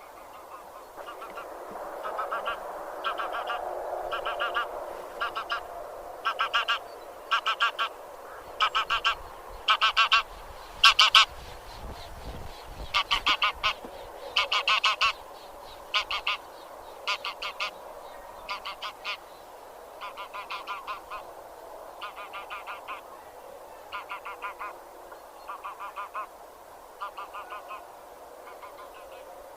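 A flock of grey geese (genus Anser) honking. Short harsh honks come in quick clusters about once a second, loudest midway, over a constant background chatter of other geese.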